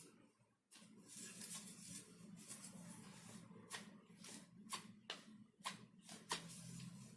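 Faint handling sounds: a series of small, sharp clicks and taps, most of them in the second half, over a low room hum and hiss.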